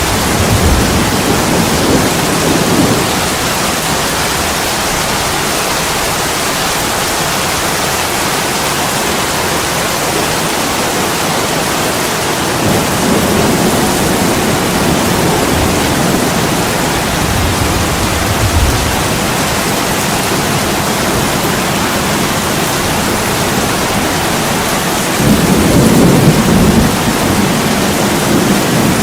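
Steady heavy rain with rolling thunder: low rumbles swell up near the start, again in the middle, and loudest near the end.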